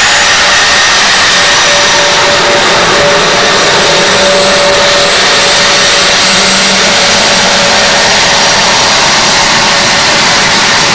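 Jet engine running steadily: a loud, even rushing hiss with faint whining tones over it.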